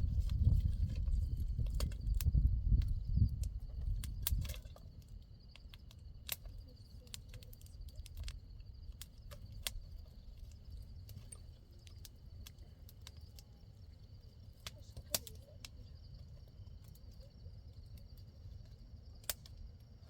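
Wind buffeting the microphone in gusts for the first four seconds or so, then dying away. Behind it, a faint, steady high chirring of insects, with scattered small clicks and snaps.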